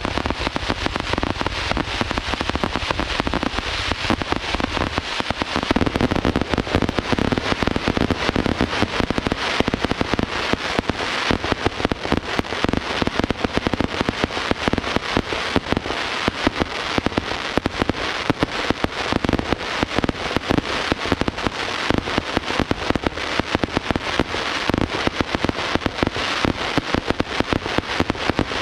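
Fireworks display: a dense, unbroken crackle of many small rapid pops, with low rumbling bursts under it in the first few seconds.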